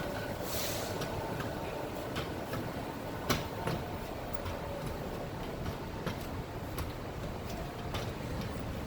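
R62 subway train running: a steady low rumble with irregular sharp clicks and ticks, and a short hiss about half a second in.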